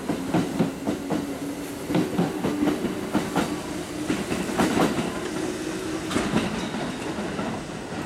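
Kintetsu red-and-white electric train moving away from the station, its wheels clattering over rail joints in a run of sharp clicks. A steady motor hum underneath steps up in pitch about two seconds in as the train gathers speed, then fades out around six seconds in.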